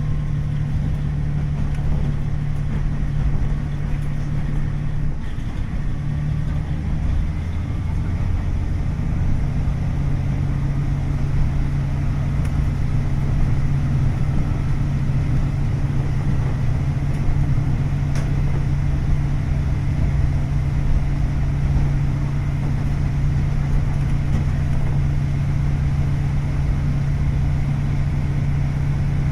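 KiHa 40 series diesel railcar's DMF15HSA six-cylinder diesel engine running steadily, with a brief change in the engine note about five to eight seconds in.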